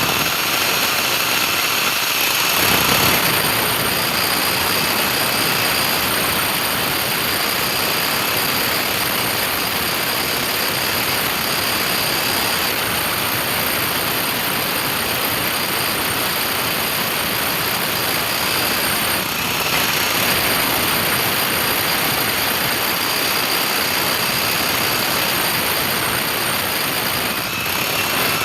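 A motor-driven machine running steadily under load, a loud even noise with a faint high whine.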